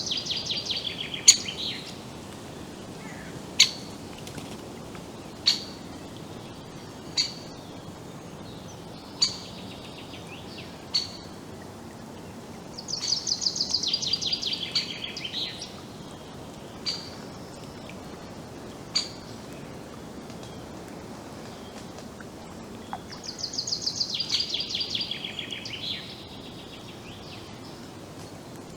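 Forest songbirds: a loud, fast trilled song that falls in pitch, repeated three times about ten seconds apart, with single sharp call notes about every two seconds in between.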